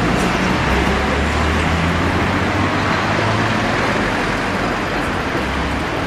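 Steady street traffic noise, with a motor vehicle's engine running close by.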